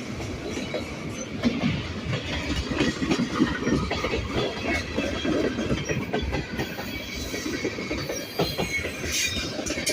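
CN train's railroad cars rolling slowly past, wheels clacking over the rail joints with irregular clanks and knocks.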